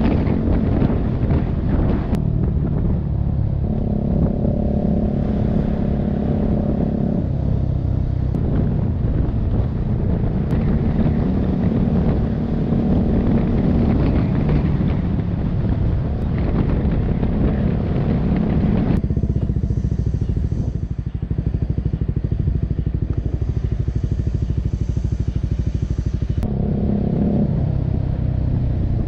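Motorcycle engine running while riding, its note shifting several times as speed and throttle change, over a steady rush of road and wind noise.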